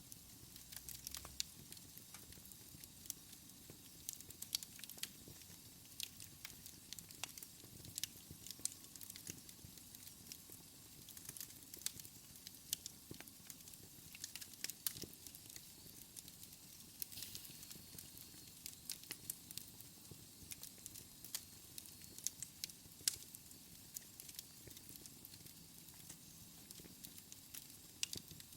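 Wood fire crackling in a fireplace: quiet, irregular sharp pops and snaps over a faint steady hiss.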